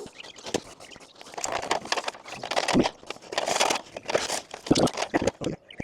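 A ladder being set up and handled: irregular knocks, scrapes and crackling rustles.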